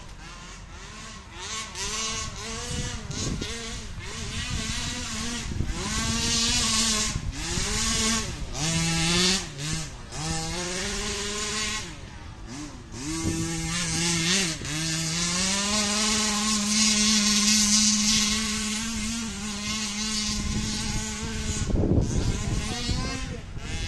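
RC truck's motor revving up and down with the throttle, its whine gliding in pitch and holding steady for a few seconds in the middle. Tyre and ground noise runs underneath, with a short burst of noise near the end.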